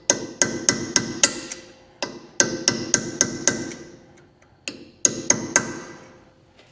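Hammer blows on steel, folding the tabs of a front wheel-bearing lock washer over onto the hub nuts: about a dozen sharp metallic strikes in three groups, each leaving a brief ringing tone.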